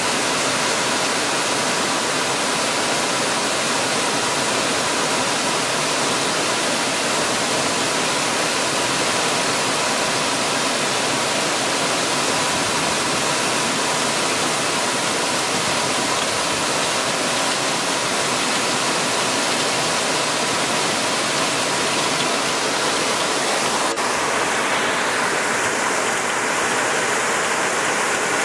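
Heavy rain pouring down in a steady, dense hiss, with a slight change in its sound near the end.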